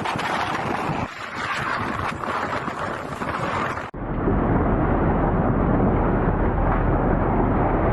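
Strong wind rushing and buffeting the microphone in gusts. About four seconds in it cuts abruptly to a louder, deeper, steady wind rumble.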